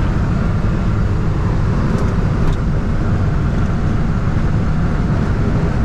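Steady road and engine noise heard from inside a vehicle cruising at highway speed, with a couple of faint ticks a couple of seconds in.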